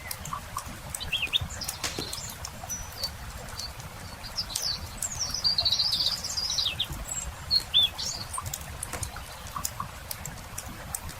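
Songbirds chirping, with a longer warbling phrase in the middle and short calls about a second in and near eight seconds, over the scattered pops and crackle of a wood campfire and a low rumble.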